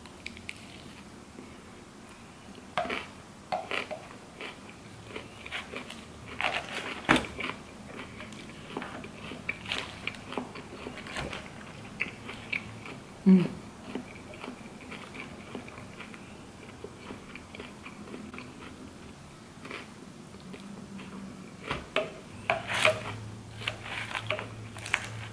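A person chewing and crunching a mouthful of raw salad vegetables such as broccoli and greens, in short clusters of crisp crunches with quieter pauses between them.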